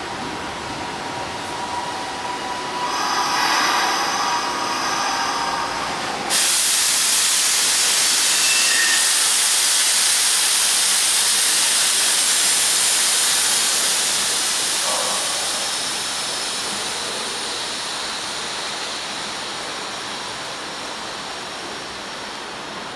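Hanshin 8000-series electric train pulling into the station and slowing. A few steady whining tones come first, then a loud hiss starts suddenly about six seconds in and slowly fades as the train slows.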